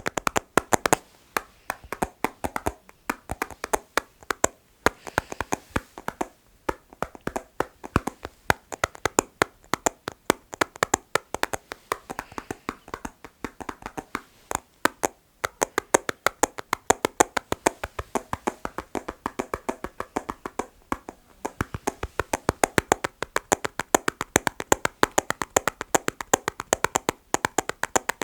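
Fingers tapping quickly and rhythmically on assorted objects, several taps a second, with a few short breaks along the way.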